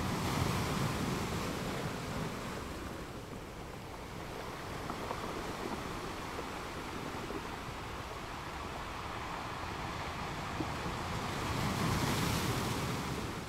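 A steady rushing noise that swells about half a second in and again near the end.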